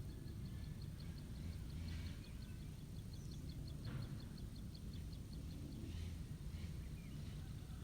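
Rural outdoor ambience: low wind rumble on the microphone, a high, even chirping repeated about five times a second that stops about five seconds in, and a few faint scattered bird calls.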